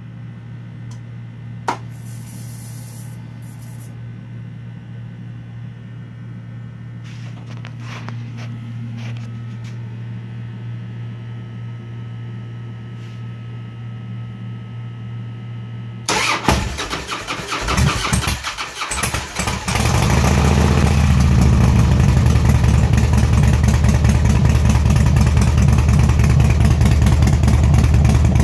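Harley-Davidson FXSTDSE2's fuel pump running with a steady hum and hiss for about sixteen seconds, then the starter cranking the V-twin unevenly for about four seconds before it catches and settles into a loud idle: a hard start.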